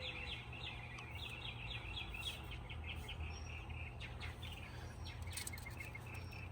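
A songbird chirping in fast runs of repeated short notes, over a steady low hum.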